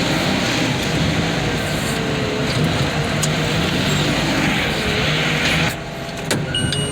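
Heavy equipment engine running steadily with a faint wavering whine over it, the level dropping sharply near the end.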